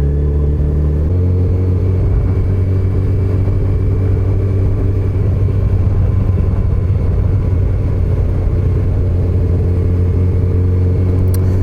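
Yamaha FJR1300's inline-four engine running steadily at low road speed, around 22 mph. About a second in its note changes, then holds steady.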